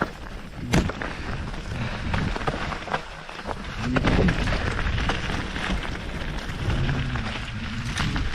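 Canyon Spectral AL6 enduro mountain bike riding down a rough, wet trail: tyre noise with a constant clatter of knocks and rattles from the bike. There is a sharp impact about a second in and a heavier low rumble around four seconds in.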